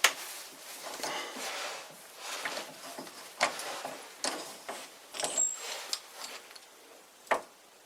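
Light metal clicks and scraping from the steel parts of a home-made lathe cross-drilling attachment being handled, with a brief high squeak about five seconds in.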